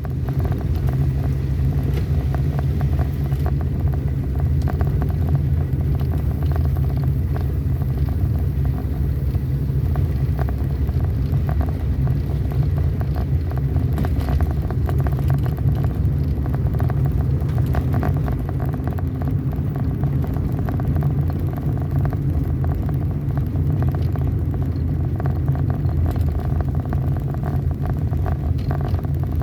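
A road vehicle driving along with a steady low engine and road rumble and many small knocks and rattles.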